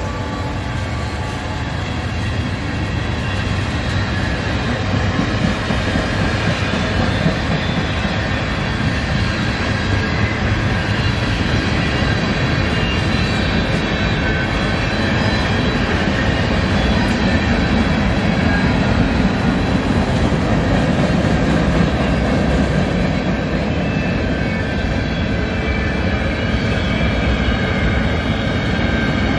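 Cars of a Canadian National manifest freight train rolling past: a steady rumble and clatter of steel wheels on the rails, getting slightly louder toward the middle.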